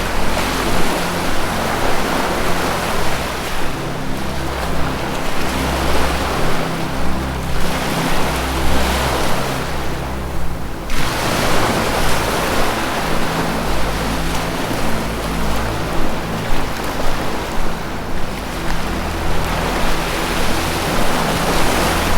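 Ocean waves breaking and washing in, the rush swelling and ebbing every few seconds, over low sustained music tones.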